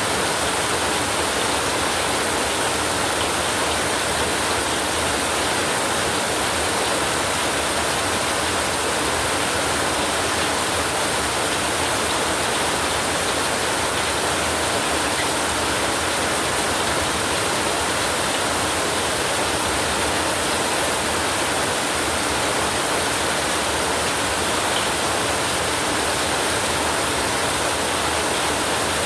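Heavy rain falling on a tin roof, a steady dense hiss with no let-up and no thunder.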